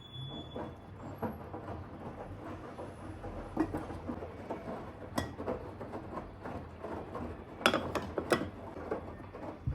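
Irregular small knocks, taps and clicks of household objects being handled, with a few sharper clicks about five seconds in and again near the end.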